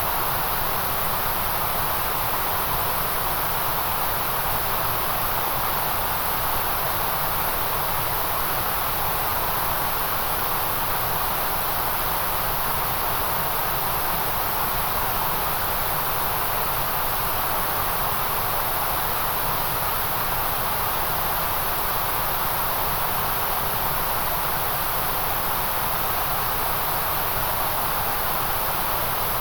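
Steady, unchanging white-noise hiss, even across the whole span with no breaks or variation.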